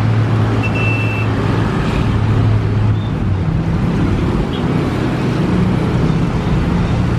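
A motor vehicle's engine running steadily, with a low hum whose note changes about three seconds in.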